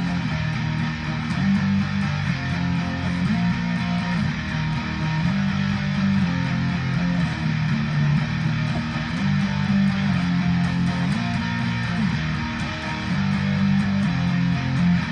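Guitar playing an instrumental passage of chords, with no singing; the chord changes come roughly once a second.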